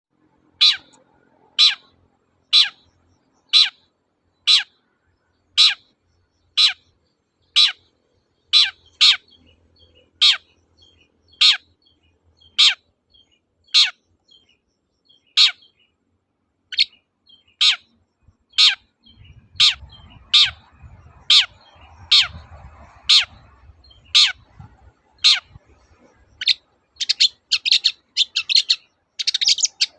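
Long-tailed shrike (cendet) calling a short, falling 'toet' note about once a second. Near the end the notes quicken into a fast, higher-pitched chatter.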